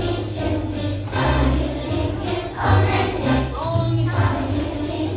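Children's choir singing a Christmas song over a backing track with jingle bells and a steady bass line.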